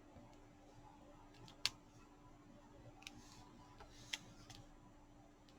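A few sharp, light clicks of diamond-painting resin drills being picked up and set down with a drill pen, the loudest about one and a half seconds in, over a quiet steady hum.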